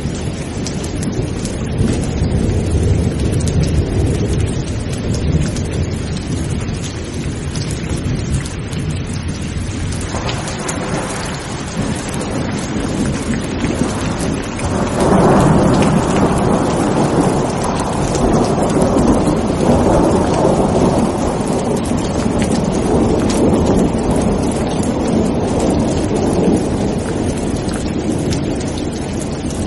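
Steady rain falling in a thunderstorm, with thunder rumbling low; about halfway through a louder, longer roll of thunder swells up and rolls on to near the end.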